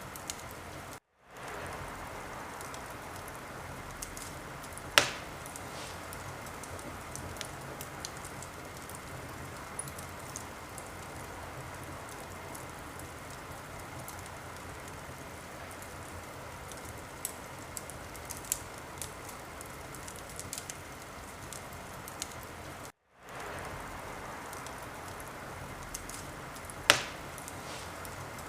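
Wood fire burning in a fireplace: a steady hiss with scattered small crackles and two sharp loud pops, one about five seconds in and one near the end. The sound cuts out completely for a moment twice, about a second in and about 23 seconds in.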